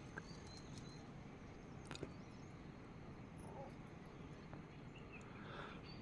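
Faint outdoor ambience: a steady low hiss with a few faint high chirps of insects or birds and a couple of sharp clicks, one about two seconds in and one at the end.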